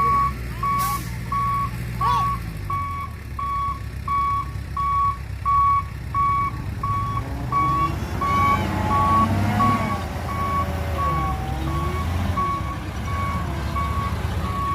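Reversing alarm on heavy earthmoving or haulage machinery, a steady single-pitch beep about twice a second, over a low engine rumble that grows louder about halfway through.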